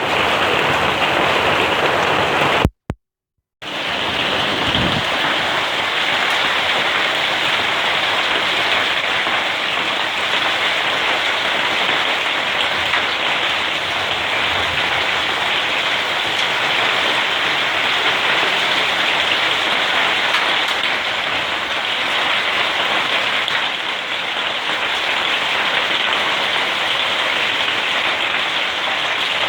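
Hailstorm: a dense, steady clatter of hailstones and rain pelting down. It cuts out for about a second about three seconds in, then resumes.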